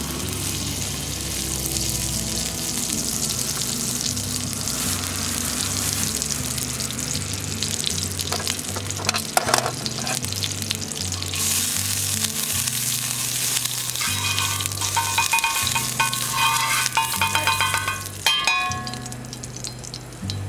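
Food sizzling steadily as it fries, with background music's stepping bass line underneath and a run of short pitched notes toward the end.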